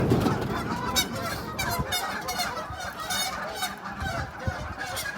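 A group of waterfowl at a pond calling, many short overlapping calls in quick succession.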